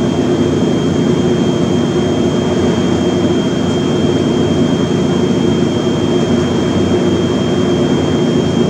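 A steady mechanical drone, with a thin constant high whine over it.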